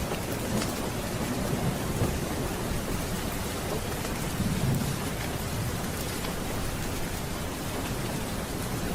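Steady rain falling with low rolling thunder rumbling underneath, the rumble swelling about four to five seconds in.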